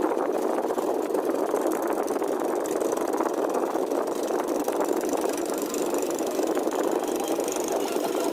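A fishing boat's engine running steadily, with no change in speed.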